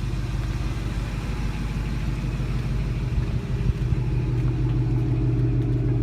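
An engine idling steadily with a low, even hum that grows slightly louder partway through.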